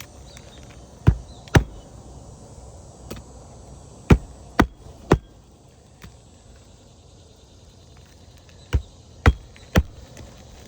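Hammer striking roofing nails into an architectural asphalt shingle: eight sharp blows in three groups of two or three, about half a second apart.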